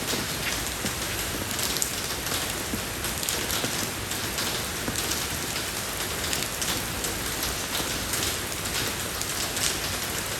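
Steady rain falling on a road surface, an even hiss with many individual drops pattering through it.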